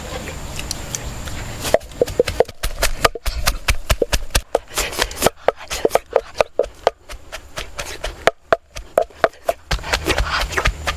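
Close-up chewing and lip-smacking of a person eating: an irregular run of sharp, wet clicks, about two or three a second. It starts about two seconds in and stops near the end.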